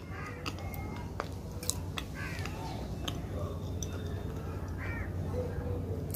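Close-miked eating: chewing with scattered wet mouth clicks and smacks, over a low steady hum.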